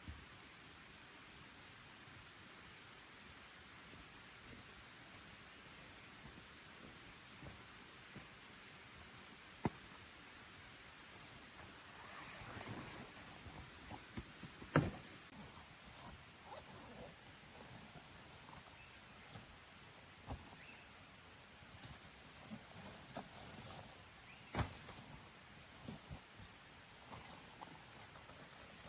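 A steady, high-pitched chorus of insects chirring in the forest. A few short sharp knocks or clicks cut through it, the loudest about halfway through.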